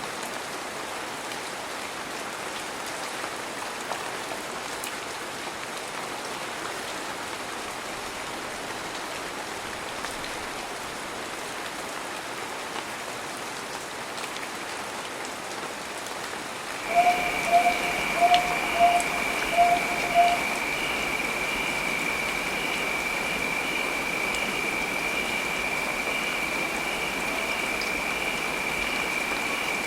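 Steady heavy rain falling. About two-thirds of the way in, the sound changes abruptly: six short, loud beeps about half a second apart, then a steady high-pitched tone with a faint regular pulsing above it, over the hiss of the rain.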